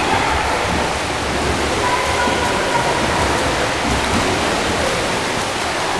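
Swimmers splashing through the water of a racing pool, a steady wash of water noise.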